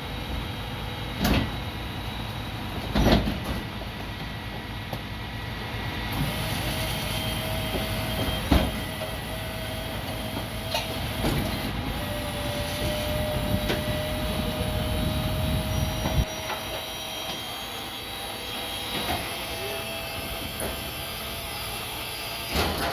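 Heavy machinery running at a trash transfer station: a steady low rumble with a faint high whine, broken by several loud metallic knocks. The rumble stops suddenly about two-thirds of the way through.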